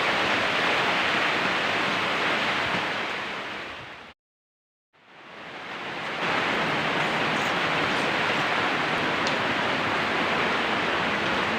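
Heavy rain pouring with a steady hiss. It fades out about four seconds in, goes silent for under a second, then fades back in.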